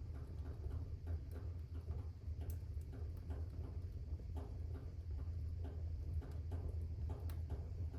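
Fire burning in a fireplace, crackling with many irregular small snaps over a steady low rumble.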